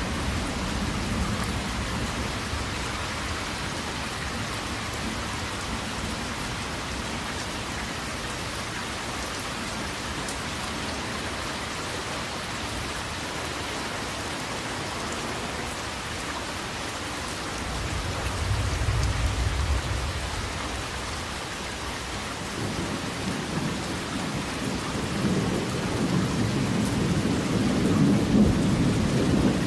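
Steady rain falling, with low rolling thunder: one rumble about two-thirds of the way through, and another building and growing louder near the end.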